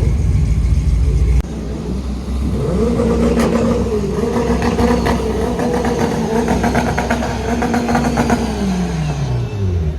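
A car engine revs up a couple of seconds in, holds high with a few brief dips for about six seconds, then winds down toward the end. A heavy low rumble fills the first second and a half and cuts off suddenly.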